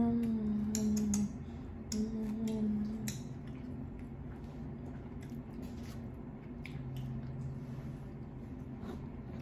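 Close-miked eating: a mouthful of green beans being chewed, with wet mouth clicks and smacks in the first few seconds. Short closed-mouth "mm" hums come near the start and again later on.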